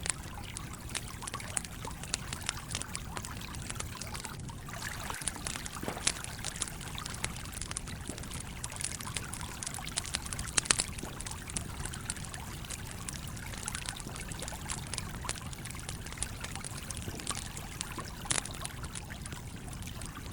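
A stream flowing steadily, with a campfire crackling in scattered sharp pops over it; the loudest pops come about ten seconds in and near the end.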